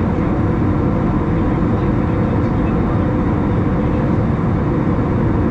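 Steady cabin noise of an Airbus A321 in flight: engine drone and the rush of airflow, with a few faint steady tones and no change in level.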